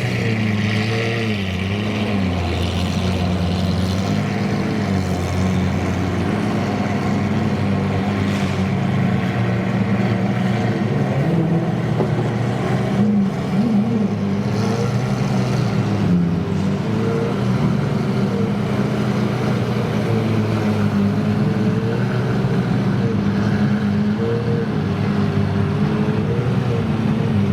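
Supercar engine running at a steady idle: a loud, even drone with slight wavering in pitch and no big revs.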